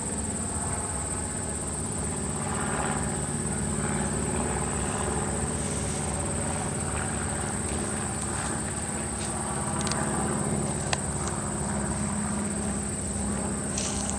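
Insects chirring in a steady, high-pitched drone over the low, steady rumble of an approaching diesel locomotive.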